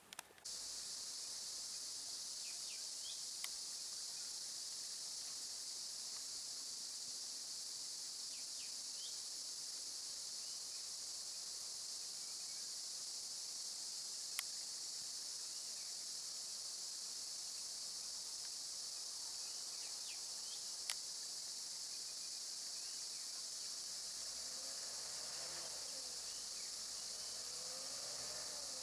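Steady, high-pitched chorus of insects. A few sharp clicks stand out, about three in all.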